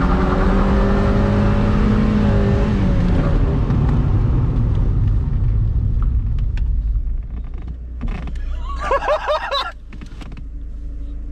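Mazda MX-5 Mk2's 1.8 four-cylinder engine revving hard under acceleration, holding a steady high note, then easing off about three seconds in, heard from inside the open-top cabin.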